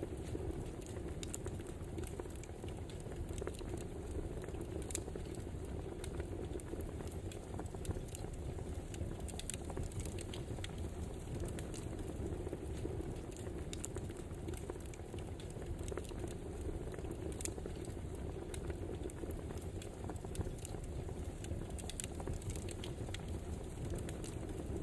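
Wood fire crackling: a steady low rush of burning logs with frequent, irregular sharp pops and snaps.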